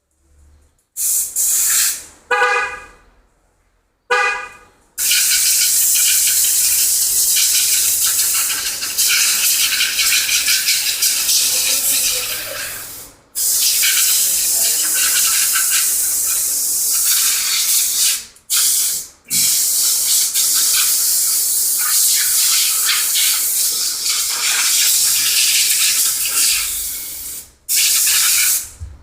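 High-pressure washer spraying water over a car's engine bay, in long bursts that start and stop abruptly. A short pulsing pitched tone sounds about two to four seconds in.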